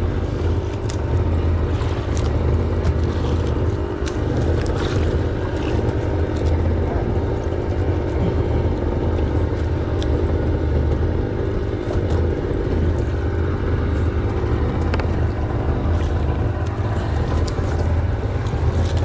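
Steady low hum of an engine running at a constant speed, with faint scattered ticks over it.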